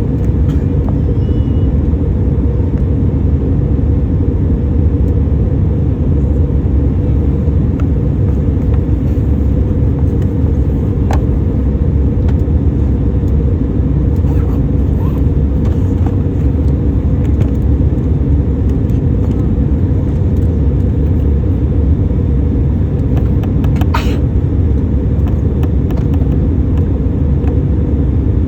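Steady, loud cabin rumble of a Boeing 737 airliner, the engines and airflow running evenly, with a few faint clicks.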